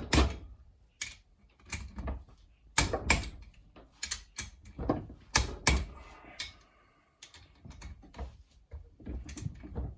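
Irregular sharp clicks and knocks of a wrench and socket working the cylinder head nuts, torqued up to 40 foot-pounds in a crisscross pattern.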